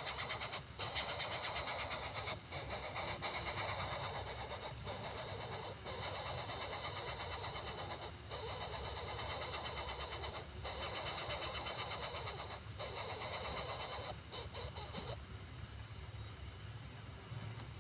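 Dense, high-pitched pulsing insect buzz in stretches of a second or two, broken by short gaps. Near the end it turns quieter and leaves a thin, steady whine.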